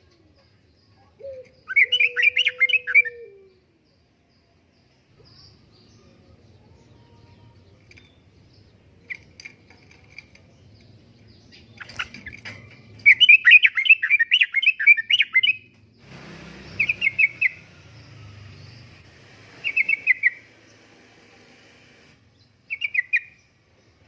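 Sooty-headed bulbul (trucukan) singing in bursts of quick, bubbling notes. Two longer runs come about two seconds in and again midway, followed by three short phrases.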